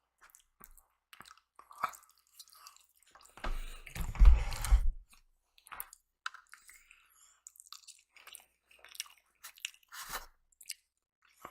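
Close-miked chewing and biting of breakfast food, soft wet mouth noises on and off. About three and a half seconds in there is a louder, deeper stretch lasting over a second.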